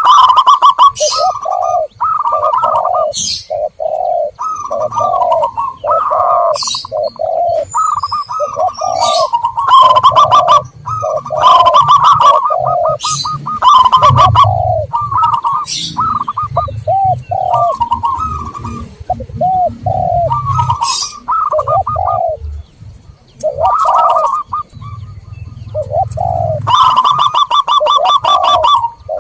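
Zebra doves and spotted doves cooing over and over, their phrases overlapping without a break, with short high chirps from other birds in between: a dove-lure call track.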